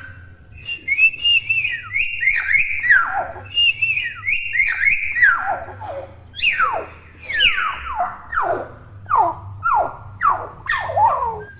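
Young common hill myna calling in a rapid run of loud whistles, most of them sliding downward in pitch, about two a second.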